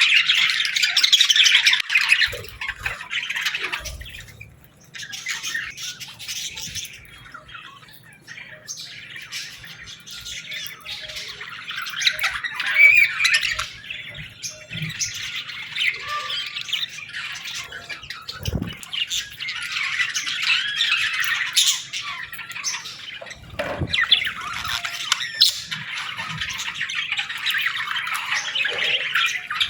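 Small birds chirping and squawking in a dense, continuous chatter that thins out briefly a few seconds in. A couple of soft thumps come through partway along.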